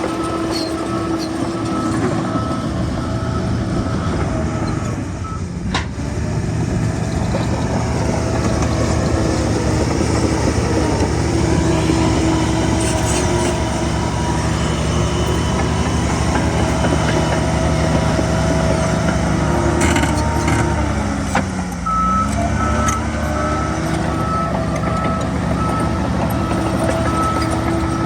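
Heavy diesel earthmoving machinery, a bulldozer working stone, running steadily under load while a backup alarm gives repeated beeps at the start and again near the end. About three-quarters of the way through, the engine pitch falls briefly and then climbs back.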